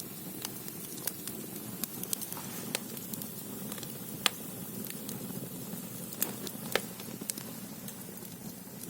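Firewood burning in the firebox of a Korean ondol (gudeul) hearth: a steady low rumble of the fire with irregular sharp crackles and pops, the loudest pop about four seconds in.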